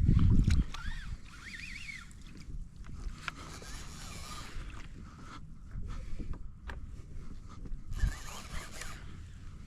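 Water sloshing against a fishing kayak's hull, with wind rumbling on the microphone. A heavy low thump comes right at the start.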